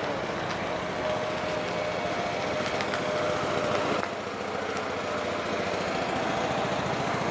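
An engine running steadily at a fast, even pulse.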